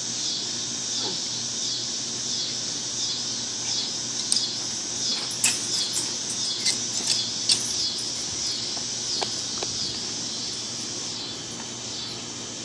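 Birds calling in a steady run of high, squeaky chirps and squawks that thin out near the end, with a few sharp clicks in the middle.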